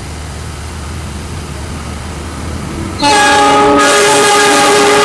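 A low steady diesel rumble. About three seconds in, a diesel locomotive's chime horn sounds a loud, long blast of several notes at once, from a train approaching to pass through the station.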